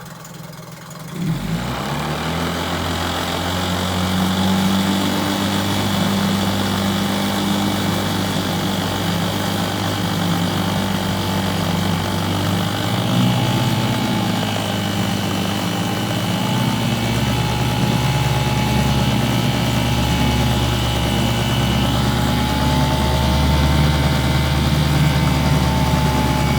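1956 Johnson 5.5 hp two-stroke twin outboard motor running in a test tank, shifted into forward gear about a second in so that it runs louder and steadily under load. Its low running note grows heavier about two-thirds of the way through.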